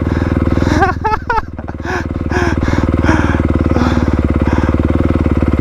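Four-stroke dirt bike engine running steadily with an even pulse, with a brief shout about a second in.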